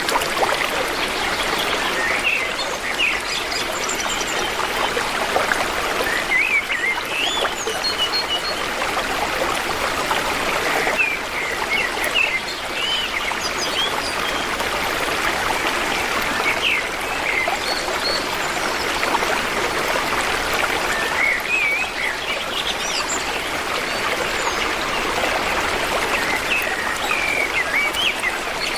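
Running stream or brook, a steady rush of water, with small birds chirping over it again and again.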